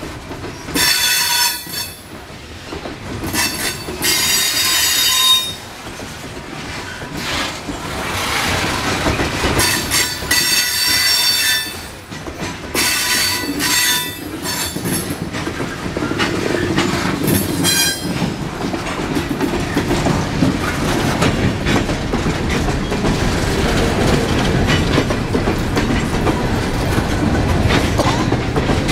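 Coal hopper cars of a long freight train rolling by close at hand. Wheel flanges squeal against the rail in repeated bursts through the first half, then give way to a steady rumble and the clickety-clack of wheels over the rail joints.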